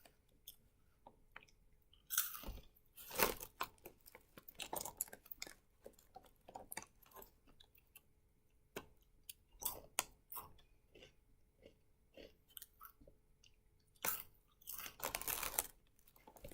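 Close-up chewing of a crunchy snack, Buc-ee's sea salted caramel Beaver Nuggets, with irregular crunches and small mouth sounds spaced unevenly.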